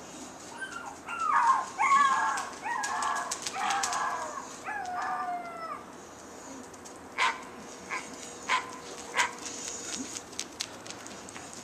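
A dog's high whining and yelping calls sliding in pitch for the first five seconds or so, then four short sharp barks about two-thirds of the way through.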